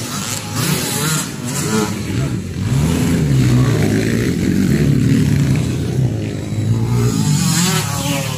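Motocross motorcycles racing, their engines revving up and down, loudest in the middle as they pass.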